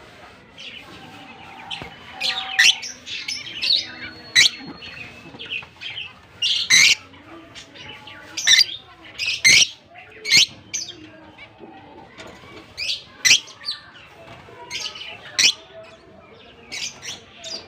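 Young masked lovebirds making short, sharp, high chirps and squawks at irregular intervals, sometimes several in quick succession.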